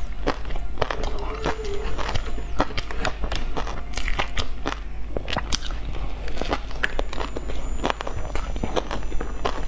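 Close-up chewing and mouth sounds: a soft bun coated in meat floss and seaweed being torn and eaten, with many short wet clicks and light crackles over a steady low hum.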